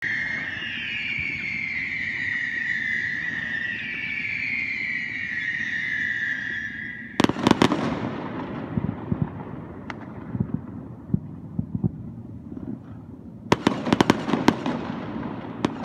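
Fireworks going off: a high whistling tone for about the first seven seconds, which stops suddenly as a rapid run of sharp bangs begins. Scattered crackling pops follow, then a second dense rush of bangs near the end.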